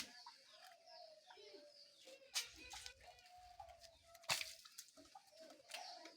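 Chickens calling softly: drawn-out low calls, with short high falling chirps over them. A few sharp knocks or clicks come in, the loudest about two and four seconds in.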